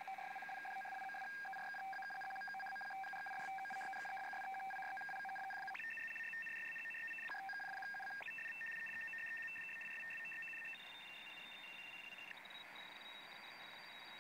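Unidentified data transmission on the 7598 kHz shortwave frequency, heard through a receiver in lower-sideband mode: steady beeping tones, two or three at a time, that hold for a second or more and then jump to new pitches, stepping higher toward the end. Radio hiss runs underneath.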